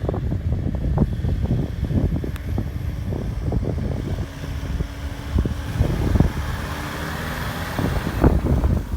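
Ford Ranger 4x4 pickup driving off-road, engine running under a low rumble with irregular knocks and heavy wind buffeting on the microphone.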